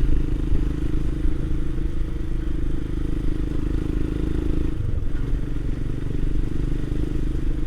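Royal Enfield Himalayan's single-cylinder engine running steadily under way, with road and wind noise; the engine note shifts about two-thirds of the way through.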